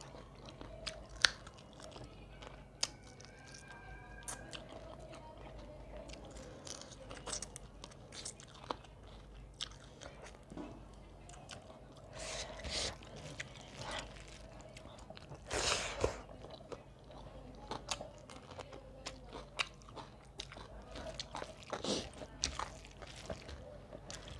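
Close-miked eating: a person chewing a meal of rice and curry, with many small wet mouth clicks and smacks and a few louder bursts of crunching.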